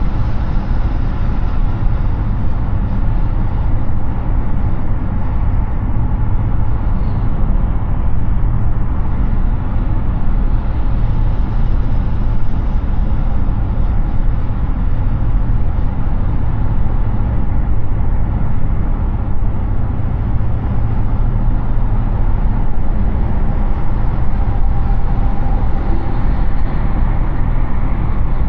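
Road and wind noise from a Hyundai Ioniq 6 electric car cruising at highway speed: a steady deep rumble of tyres on pavement with a hiss of wind over it, and no engine sound.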